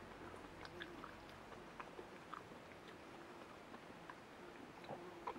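Faint chewing: soft mouth sounds of someone eating stir-fried eggplant, with scattered small clicks and the sharpest one near the end.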